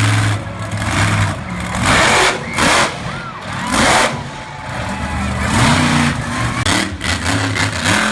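Monster truck engine revving in repeated loud bursts of throttle, the pitch rising and falling between blips over a low running note.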